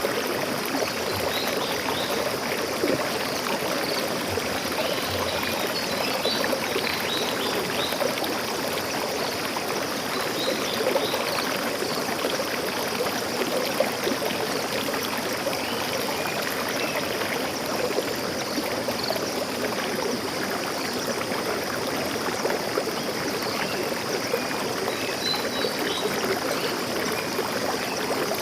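Stream water flowing and babbling steadily, with a few faint high bird chirps about six seconds in and again near the end.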